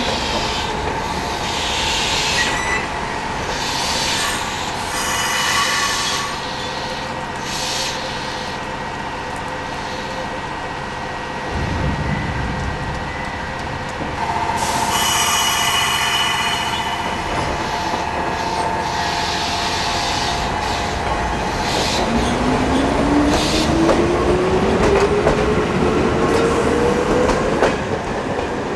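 Chichibu Railway 5000 series electric train, a resistance-controlled ex-Toei Mita Line 6000 series unit, standing and moving at a station platform with steady equipment hum. In the last several seconds its traction motors whine steadily rising in pitch as the train accelerates away.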